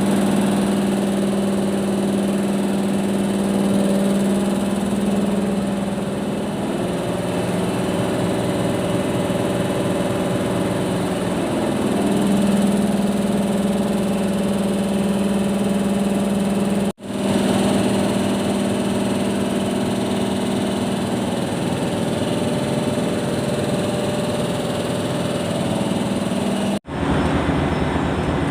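Three-stage NK air compressor running with a steady hum whose pitch shifts slightly now and then; the sound breaks off for an instant twice, about 17 and 27 seconds in.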